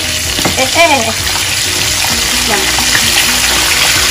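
Chicken drumsticks sizzling as they fry in hot oil in a pan, a steady dense crackle that grows a little louder after about two seconds.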